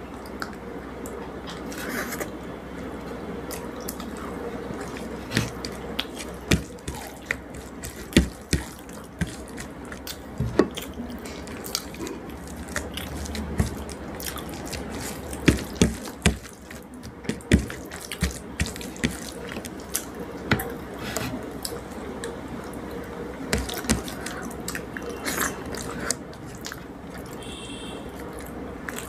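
Wet eating sounds of rice and fish curry: irregular smacks, clicks and squelches of chewing and mouth movements, some louder than others.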